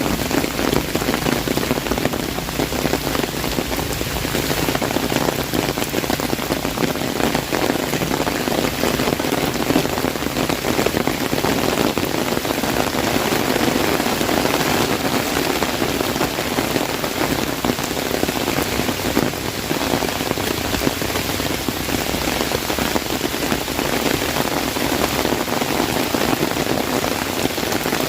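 Heavy rain drumming steadily on an umbrella held overhead: a dense, even rush of countless drops striking the canopy.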